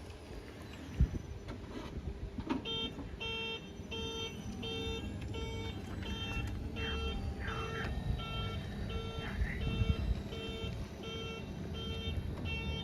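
An electric van truck's warning beeper sounding repeatedly and evenly, about one and a half beeps a second, starting about three seconds in, over a low rumble. A single sharp knock comes about a second in.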